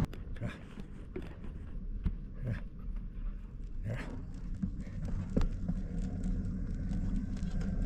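Vehicle motor running with a steady low hum, with scattered light clicks and rattles.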